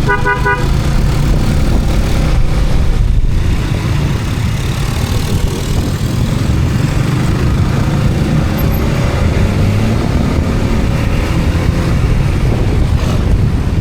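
Steady rumble of a road vehicle travelling, engine and road noise heavy in the low end. There is a short pitched beep right at the start.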